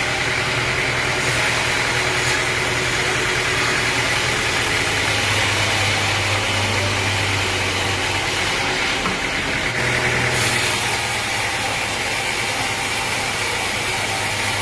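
Engine running steadily at an even speed, with a continuous low hum and a steady higher whine over it.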